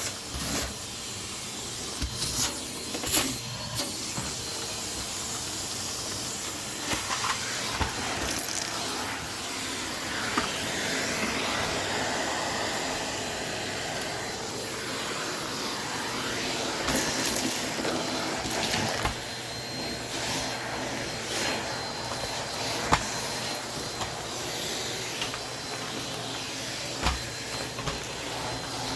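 Vacuum cleaner running steadily, sucking up crumbs from the floor, with scattered sharp clicks and knocks as debris and the nozzle hit things.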